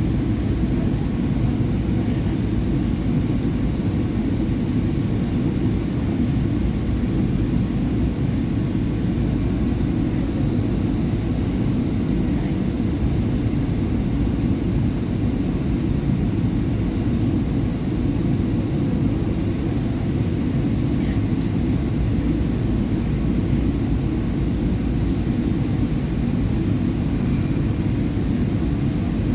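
SEPTA Market-Frankford Line subway train running at speed: a steady low rumble of wheels on rail and traction motors, unchanging throughout.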